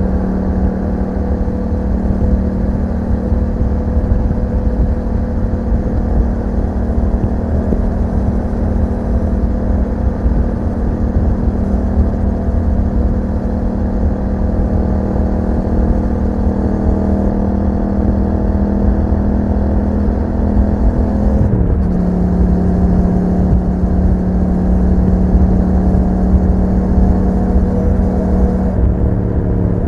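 2021 Yamaha MT-07 parallel-twin engine running through an Akrapovič exhaust while under way. Its pitch creeps slowly upward, then drops suddenly about two-thirds of the way through and again near the end.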